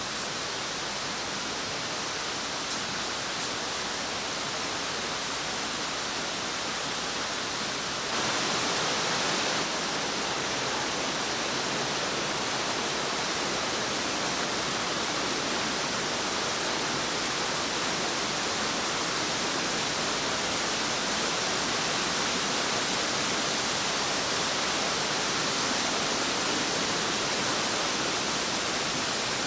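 Waterfall: water pouring and splashing in a steady rush, a little louder from about eight seconds in.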